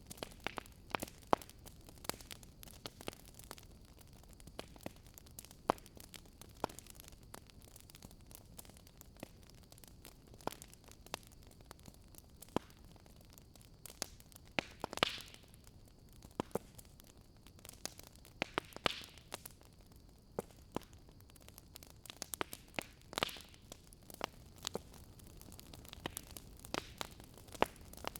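Wood fire burning in a fireplace, crackling with frequent irregular small pops and snaps over a faint steady hiss, with three louder pops spread through.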